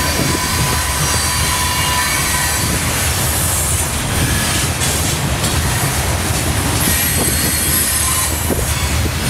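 Loaded covered hopper cars of a grain unit train rolling past close by: a steady rumble of steel wheels on rail, with thin high-pitched wheel squeal over it.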